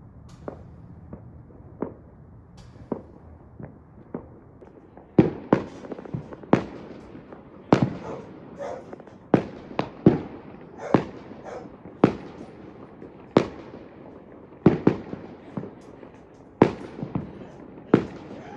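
Fireworks exploding, sharp bangs with short echoing tails: a few scattered small ones at first, then from about five seconds in louder, more frequent bangs, one or two a second.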